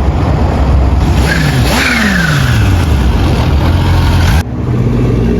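Car engines revving hard and accelerating with a heavy low rumble, the engine pitch climbing and dropping back about one to two seconds in. The sound breaks off abruptly near the end, and a steadier engine hum follows.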